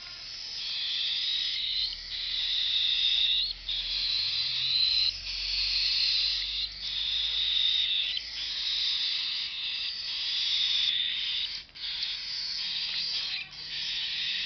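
Cockatiel chicks food-begging while being hand-fed by syringe: a harsh, hissy call repeated in runs of one to two seconds, broken by short pauses.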